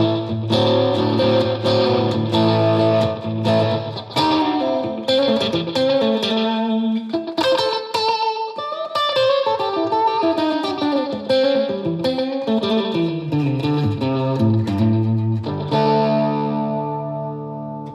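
Electric guitar, a Stratocaster played through a Fender Mustang GTX100 modelling amp on a short-delay preset, picking a run of notes and ringing chords with the repeats trailing behind them.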